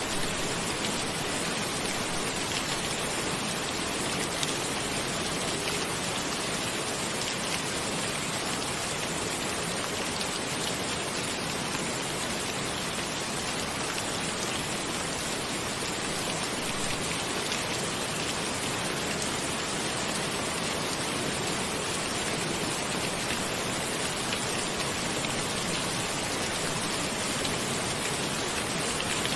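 Steady rain falling, with the patter of drops on a surface.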